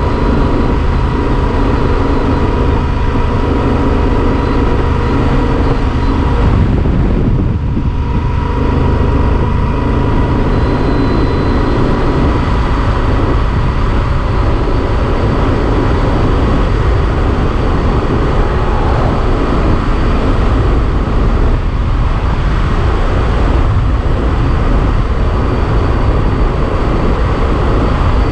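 Yamaha Super Ténéré XT1200 parallel-twin motorcycle engine running at a steady pitch while riding, with wind rushing over the camera microphone.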